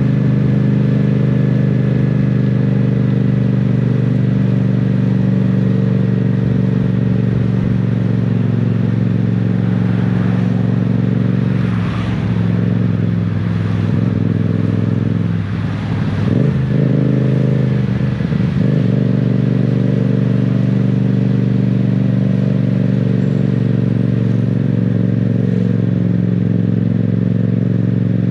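Yamaha 689 cc parallel-twin motorcycle engine running at a steady cruise. About halfway the revs drop and climb again several times, then settle back to a steady pitch.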